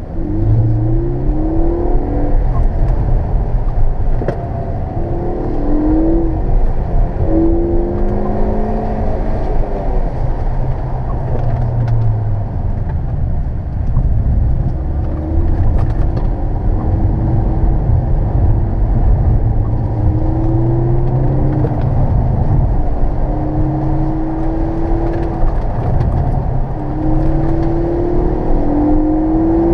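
The 2013 Ford Focus ST's turbocharged 2.0-litre four-cylinder, heard from inside the cabin, revs up and eases off again and again as the car drives the autocross course, its pitch repeatedly climbing and dropping back.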